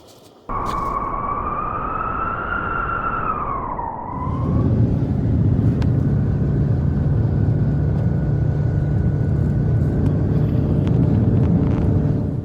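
A wolf gives one long howl that wavers and dips at its end. It is followed by a loud, steady low roar of blizzard wind, which cuts off suddenly near the end.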